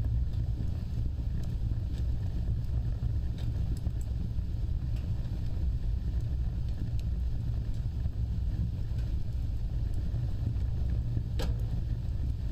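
Wood fire burning with a steady low roar, with scattered small crackles and one louder pop near the end.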